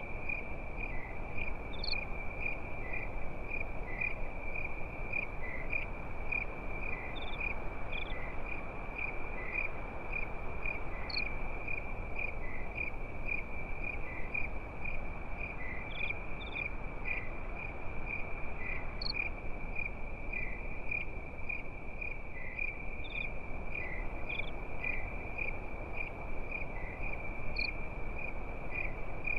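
Crickets chirping in a continuous, steady pulsing trill, with a few short higher chirps scattered through, over an even background rush.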